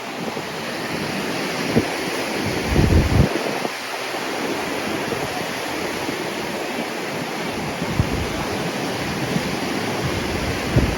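Surf breaking and washing up on the beach at high tide, a steady loud rush. Wind buffets the microphone in low gusts, strongest about three seconds in.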